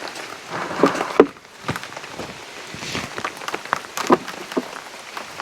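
Rain pattering on surfaces, with scattered irregular knocks and clatter; the loudest is a sharp knock about a second in.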